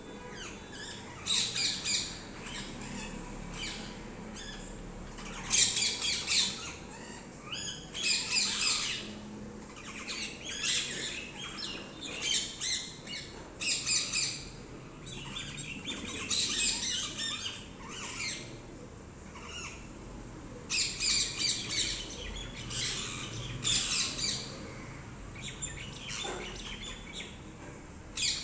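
Pet parrots squawking: harsh, high calls in short clusters, repeated every second or two.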